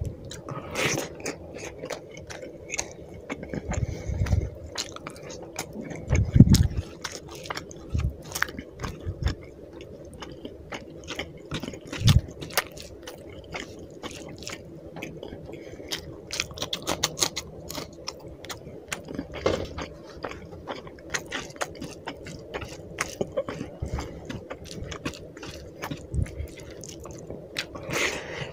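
Close-miked wet chewing and smacking mouth sounds of someone eating rice and fish curry by hand, with fingers squishing through the rice. Dense small clicks, with a few dull thumps at about 4, 6 and 12 seconds in.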